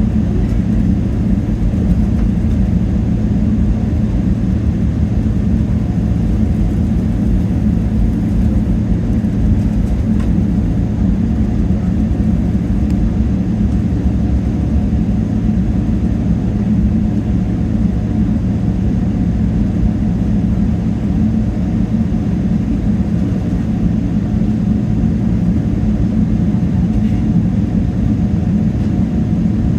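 Steady, loud low drone of a Boeing 777-300ER's GE90 engines and airflow, heard inside the passenger cabin, with a constant low hum and no change in pitch.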